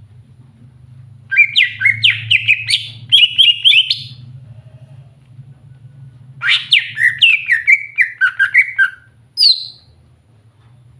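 Green leafbird (cucak hijau) singing: two runs of rapid, sliding chirps, each about three seconds long, then one short high note, over a steady low hum.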